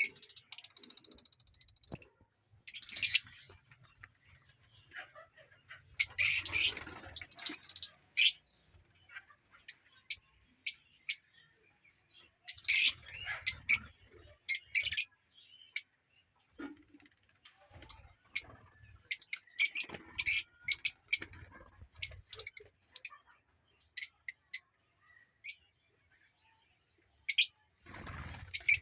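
Lovebirds in an aviary colony chirping: short, sharp, high chirps in scattered bursts with quiet gaps between.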